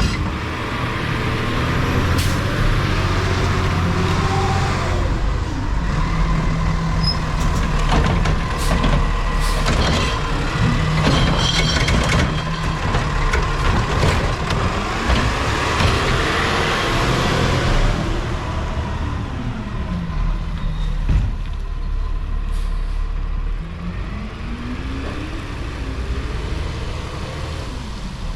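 Heavy diesel refuse truck running nearby, its engine rising and falling in pitch several times, with sharp air-brake hisses and clanks.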